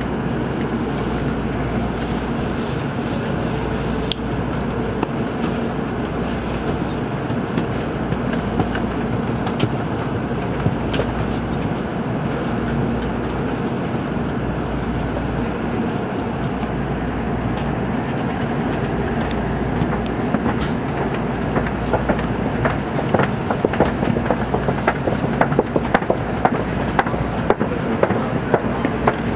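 Shinkansen train heard from inside the passenger car: a steady low hum of the train's running systems, then, as it pulls out of the station, clicks and rattles from the wheels and track that come faster and faster as it gathers speed, starting about two-thirds of the way through.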